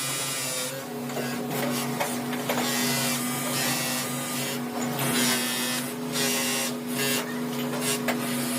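Factory machinery running with a steady electric hum, broken by repeated short bursts of hissing noise, about one every second or two.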